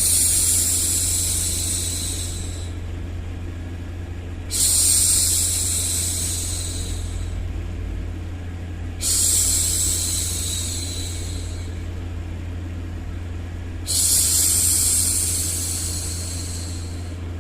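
A woman shushing a baby with long 'shhh' sounds, four times, each starting strong and fading away over a couple of seconds, about every five seconds. A steady low rumbling noise runs underneath.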